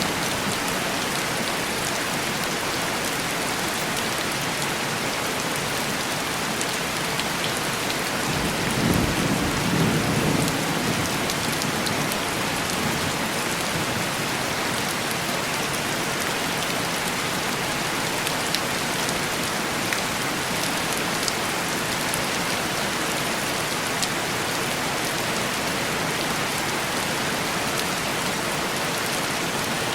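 Steady heavy rain falling on window glass. A low rumble of distant thunder swells and fades about nine seconds in.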